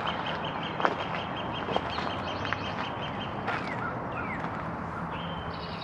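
Birds calling: a long rapid run of high pips, about seven a second, that stops about three and a half seconds in, then a few rising chirps and another high call near the end. Under them is a steady low hum, and two sharp knocks come about one and two seconds in.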